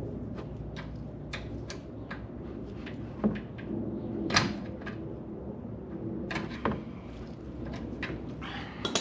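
Scattered clicks and knocks of tools and parts being handled during an oil change, with louder knocks about three, four and a half, and seven seconds in.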